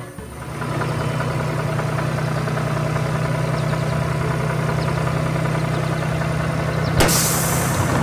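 A heavy vehicle's engine idling steadily, dipping briefly at the start. A sudden loud crash-like burst comes about seven seconds in.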